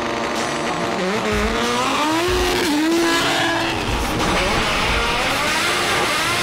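Race car engine accelerating hard, its pitch climbing steadily and dipping once at a gear change about two and a half seconds in.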